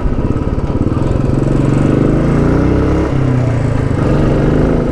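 Royal Enfield Bullet 500's single-cylinder engine running steadily on the move, rising in pitch and then dropping briefly about three seconds in.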